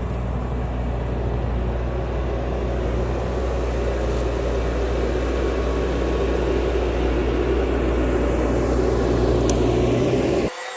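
A heavy machine's diesel engine running steadily under work, slowly growing louder, then cut off abruptly near the end.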